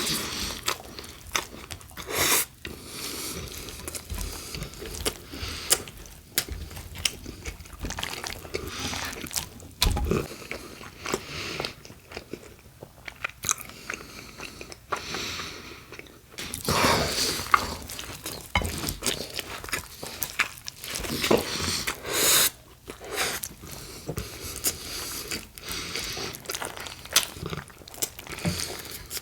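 Close-up eating sounds: crunchy bites and chewing of a BLT sandwich made with crisp bacon, iceberg lettuce and tomato on Italian bread, with many sharp crackling crunches and louder bursts of bites now and then.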